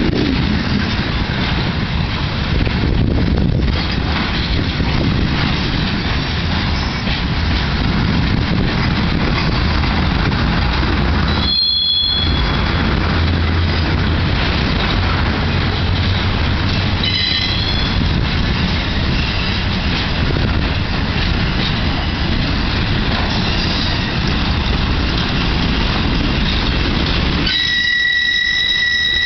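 Freight cars rolling past close by, with a steady loud rumble of wheels on rail. Short high flange squeals come through about 12 and 17 seconds in. Near the end the rumble drops away and a steady high-pitched wheel squeal is left.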